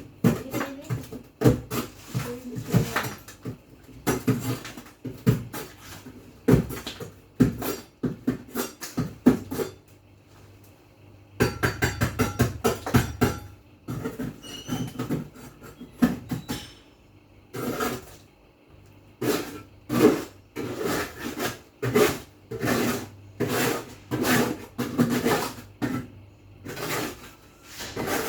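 Repeated knocks, clatter and rubbing of household items such as dishes and containers being handled and set down, in irregular bunches with a short lull about nine seconds in.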